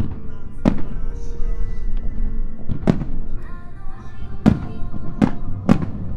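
Aerial firework shells bursting: five sharp booms, two seconds apart at first and then coming faster near the end, over background music.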